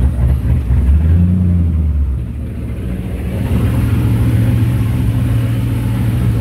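Twin-turbocharged 6.2 L LT1 V8 of a 6th-gen Camaro SS, fitted with a Huron Speed kit, running steadily at idle, its note dropping lower for a moment about a second in and then settling.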